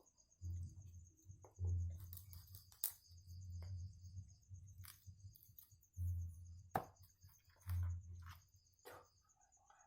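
Crickets chirping steadily in a high, pulsing trill, broken by several short, low thuds and a few sharp clicks of close handling noise.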